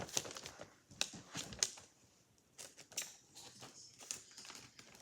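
A homemade blind bag being handled: scattered light crinkles and small taps, with a short pause about two seconds in.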